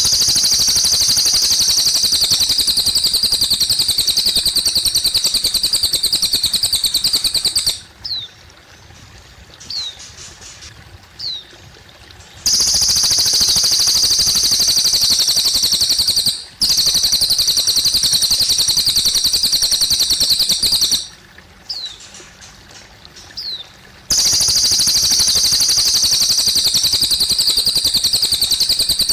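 Cililin bird singing long, loud, rapid high trills of several seconds each, broken by short pauses that hold a few brief falling chirps, over a faint trickle of water.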